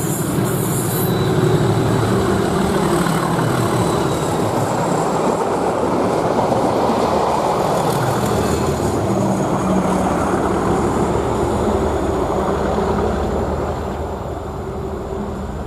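A pair of Class 37 diesel locomotives passing with their engines running, a loud, steady rumble of engine and wheels that fades away near the end.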